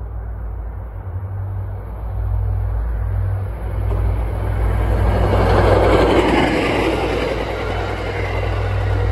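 An MBTA train passing, with a deep rumble and a noise of wheels on rail that builds to its loudest about six seconds in.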